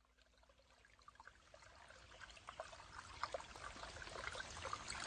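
Water from a shower spray pattering and trickling in many small droplets, fading in from silence and growing steadily louder.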